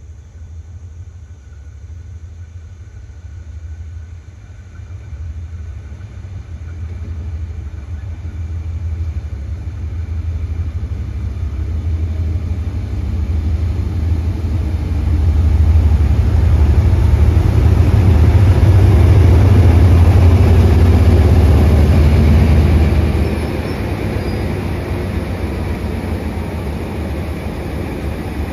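Diesel-hauled parcel train coming into the station. Its engine and rumble grow steadily louder to a peak as the locomotive draws level, then drop about three-quarters of the way through to the steadier rolling of the carriages past the platform.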